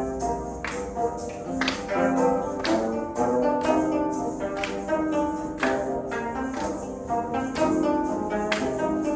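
Live instrumental ensemble playing a melodic piece, with held pitched notes and frequent crisp, sharply attacked notes.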